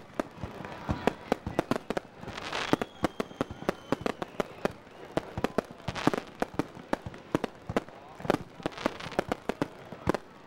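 Aerial fireworks display: a dense, rapid run of bangs as shells burst one after another, with rushing hisses from rising shells about two and a half and six seconds in. A faint falling whistle comes about three seconds in.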